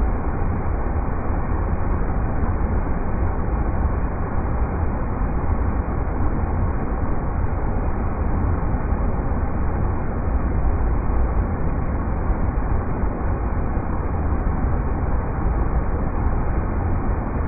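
River rapids rushing in a steady, unchanging wash of water noise, deep and rumbly, with no hiss at the top.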